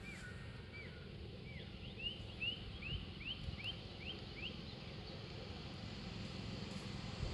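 A bird calling over and over in a run of short rising chirps, quickening to about three a second a couple of seconds in, then stopping a little past the middle. A low steady rumble lies beneath it.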